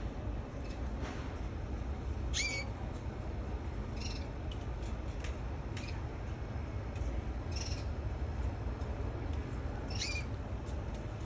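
Canary giving short, high chirps four times, a couple of seconds apart, over a steady low rumble.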